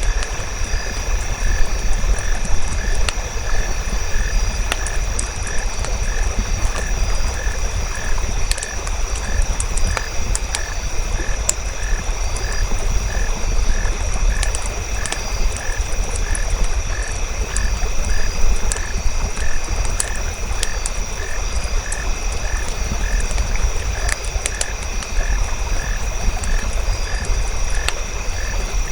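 Steady nature ambience: a frog calling in an even rhythm, about three calls every two seconds, over steady high-pitched trilling, with scattered sharp crackles of a wood fire and a constant low rumble.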